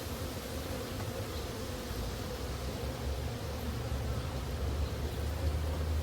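Honeybees buzzing around their hive in a steady hum, with a low rumble growing louder near the end.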